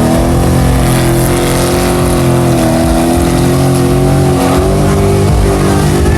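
Mega truck's big engine running loud and steady at high revs, its pitch holding level with small dips and wobbles.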